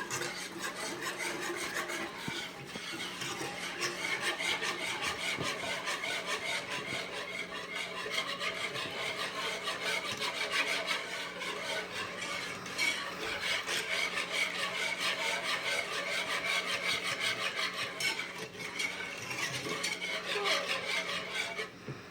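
Whisk stirring heavy cream in a pan: a continuous fast scraping and rubbing of the whisk against the pan, with rapid light ticks, easing off at the very end.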